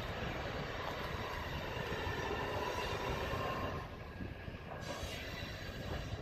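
Freight cars, a boxcar and a centerbeam flatcar, rolling slowly along the rails in a yard switching move, with thin wheel squeal over a steady rumble.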